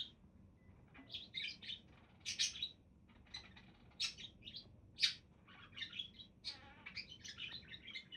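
Pet budgerigars chirping and warbling in short, irregular bursts, with louder single chirps about a third and two-thirds of the way in.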